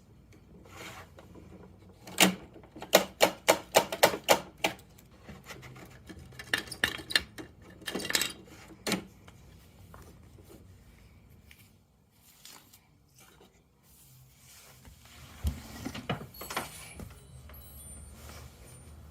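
Hard plastic parts of a Bruder toy garbage truck and its bins clicking and clattering as they are handled: a quick run of sharp clicks, about four a second, then scattered clicks, and a single low thump near the end.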